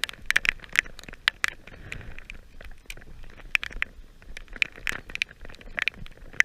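Heavy rain, big drops tapping irregularly, several a second.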